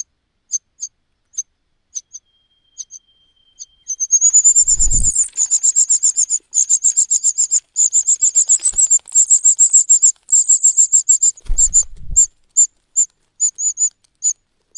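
Cuckoo chick's high, thin begging calls: single short cheeps about twice a second, breaking into a fast, almost unbroken run of calls about four seconds in and falling back to separate cheeps near the end. Two brief low thumps come as the fast calling starts and as it ends.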